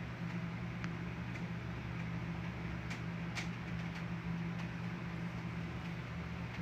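Steady rain heard from indoors, with a low steady hum underneath and a few faint scattered ticks. No thunder clap.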